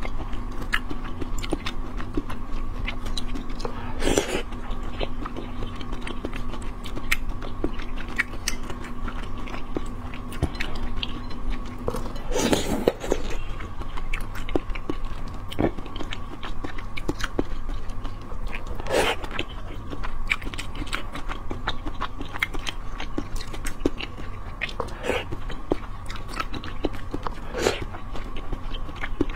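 Close-miked wet chewing and biting of soft seafood pieces in chili sauce. Many small wet clicks and smacks, with a few louder ones about 4, 13 and 19 seconds in, over a faint steady hum.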